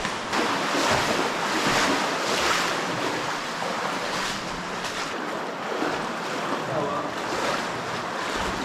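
Rushing water of an underground stream in a cave, running high after heavy rain: a steady, loud rush that swells and eases.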